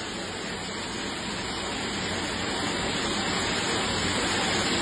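Steady rush of flowing floodwater, a dense noise that grows slightly louder.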